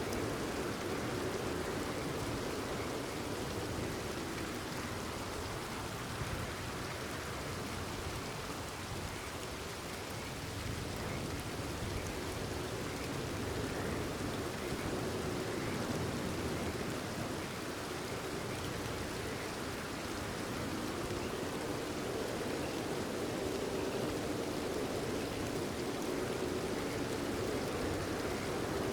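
Steady rain falling, a continuous even patter, with a chorus of frogs calling underneath.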